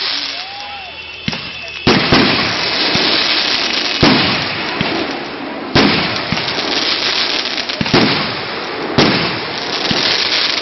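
Fireworks going off at close range: about five sharp bangs some two seconds apart, with a dense crackling hiss between them.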